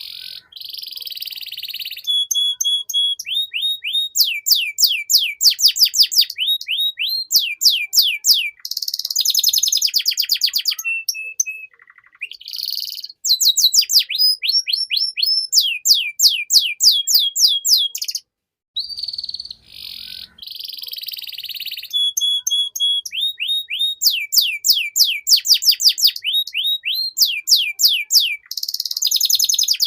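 Domestic canary singing vigorously in long, fast phrases: rapid runs of repeated falling whistled notes, held steady tones and buzzy rolls, with a brief pause about two-thirds of the way through.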